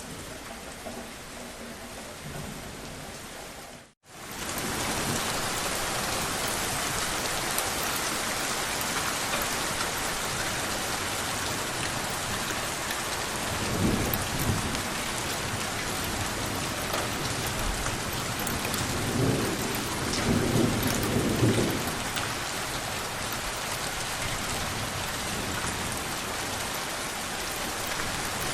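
Steady rain falling, with thunder rumbling low twice: once around the middle and again for a few seconds a little later. About four seconds in, the rain cuts out for an instant and comes back louder.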